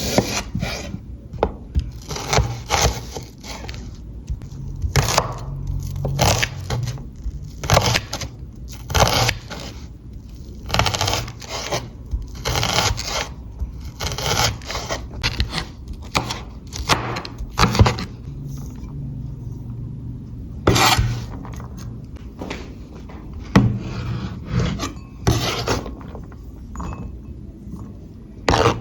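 A cooking utensil scraping against a pan in repeated strokes, about one a second with short pauses, over a low steady hum.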